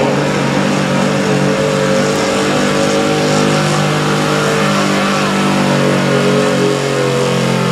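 Pulling pickup truck's engine running at full throttle under load as it drags the sled. The pitch holds fairly steady, with slight dips partway through.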